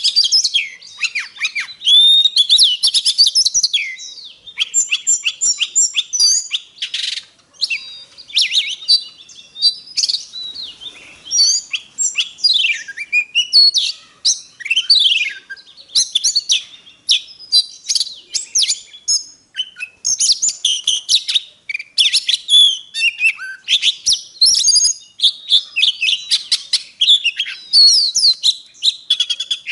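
Oriental magpie-robin singing a long, varied song of rapid whistles, chirps and sweeping notes, high-pitched and nearly unbroken: the lure song used to train caged birds to sing.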